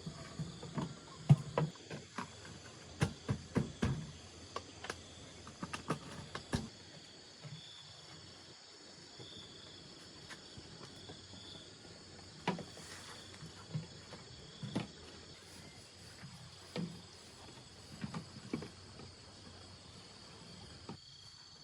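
Irregular knocks and taps from things being handled, thickest in the first several seconds and sparser afterwards, over a steady high chirring of insects.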